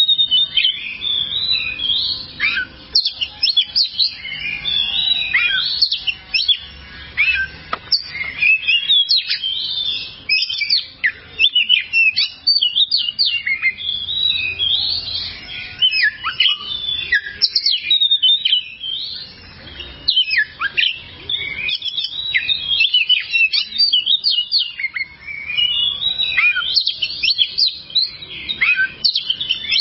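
Oriental magpie-robin (kacer) singing a rapid, varied song of high chirps, whistles and trills, broken by short pauses.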